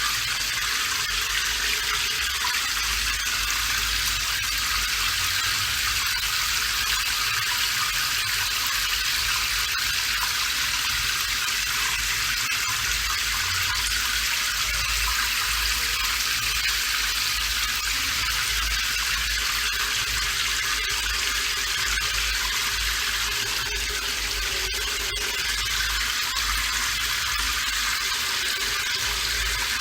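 Steady rain falling: an even, unbroken hiss with a faint low rumble beneath it.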